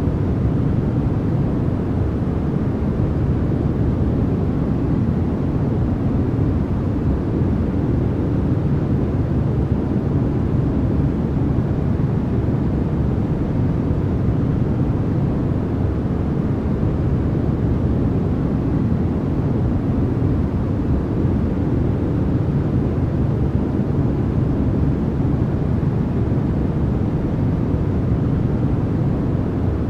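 Steady, unchanging synthetic noise played as a sleep and focus sound. It is weighted strongly toward the low end, so it sounds like a deep, even rumble with little hiss.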